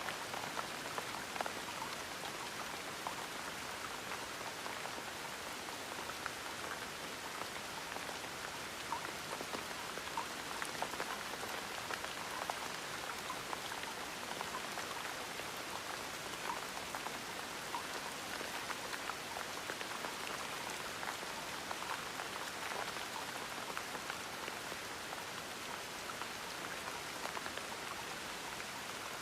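Gentle, steady rain with small drops pattering on a surface.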